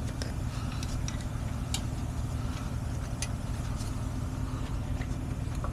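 Heavy truck engine idling steadily, with a few faint clicks over it.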